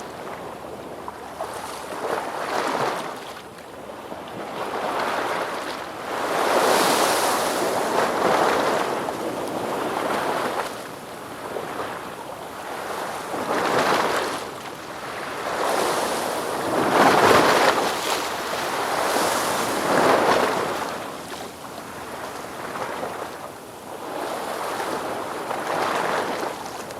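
Ocean waves breaking and washing in, a rushing noise that swells and falls back every few seconds. The biggest surges come about seven, fourteen and seventeen seconds in.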